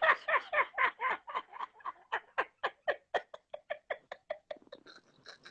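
A man laughing hard in a long run of quick, evenly spaced bursts, about five a second, growing fainter as it trails off.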